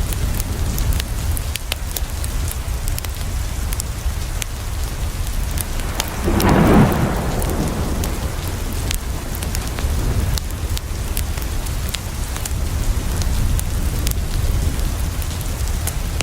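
Steady rain falling on a window, with a constant low rumble and scattered sharp ticks of drops. About six and a half seconds in, a louder rush swells for a second or so and dies away.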